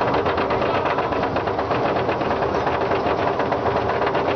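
Mine-train roller coaster running along its track: a loud, steady, fast clatter of wheels and car mechanisms.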